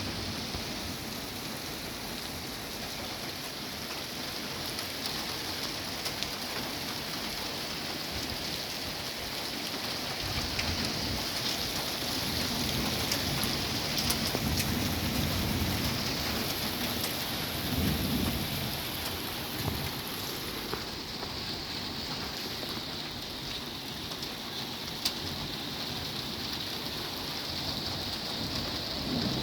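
Steady rain falling, with low rolls of thunder rumbling under it, swelling loudest in the middle and again near the end.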